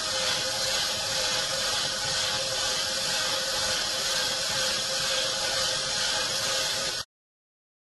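Vibration generator of a model earthquake simulator running steadily, shaking a model building at a fixed frequency: a steady mechanical buzz with a hiss and a held hum, which cuts off suddenly about seven seconds in.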